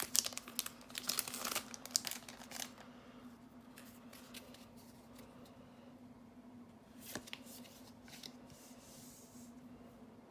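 A Magic: The Gathering draft booster pack wrapper being torn open and crinkled for the first couple of seconds, then a quieter stretch with a few faint clicks and a brief rustle, over a steady low hum.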